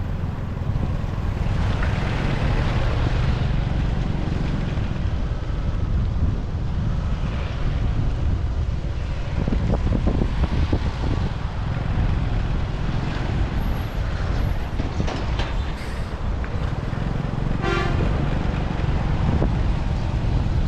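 Motorcycle riding in city traffic: a steady low rumble of engine and road noise, with a short vehicle horn toot near the end.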